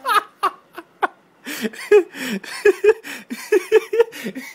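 Laughter and giggling in many short, pitched bursts.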